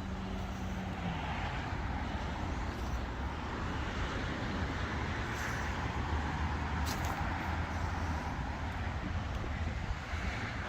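Road traffic: cars passing in a steady rush with slow swells as vehicles go by, and a hum that cuts off about a second in. A single sharp click a little past halfway.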